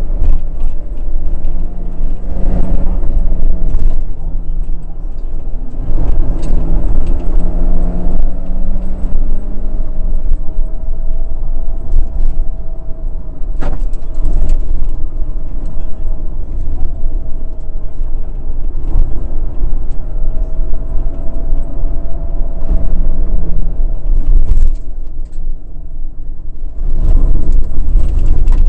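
Rally car's engine heard loud from inside the cockpit at racing speed, revs climbing and dropping again and again through the gears, over a constant low rumble. A single sharp knock cuts through about fourteen seconds in.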